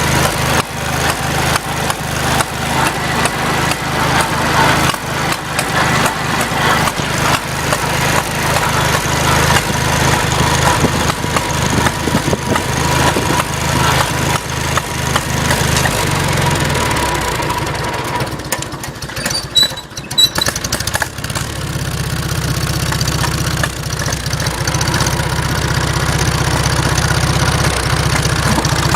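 Farmall Cub's four-cylinder flathead engine running with an irregular popping that has its owner asking for the cause. About two-thirds of the way through the engine slows, dips briefly, then settles into a steady idle.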